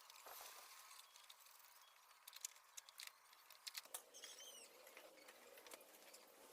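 Near silence with faint scattered clicks and taps, and a short chirp about four seconds in.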